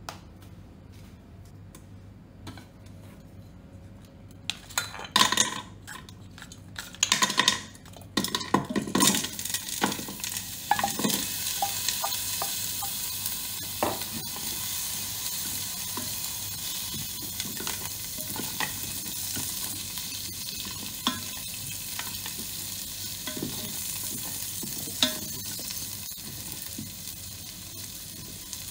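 Ginger slices, garlic cloves and whole spices going into hot oil in an electric multicooker's inner pot, clattering loudly against the pot for a few seconds. Then comes a steady sizzle as they fry, with a wooden spatula now and then scraping and knocking against the pot.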